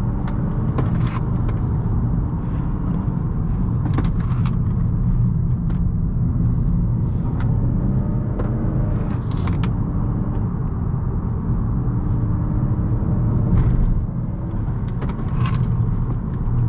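Honda Accord's 1.5-litre turbo four-cylinder engine pulling through a run of tight corners, its pitch rising and falling with the throttle, over a steady heavy rumble of tyres and road. Scattered short clicks and knocks come through on top.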